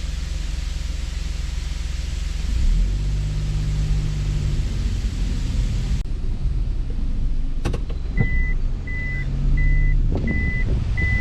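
Car engine and road noise, with the engine's hum rising for a couple of seconds and then settling. Near the end, a couple of clicks are followed by a steady high beep repeating a little more than once a second: the car's reverse-gear warning beeper as it is put into reverse.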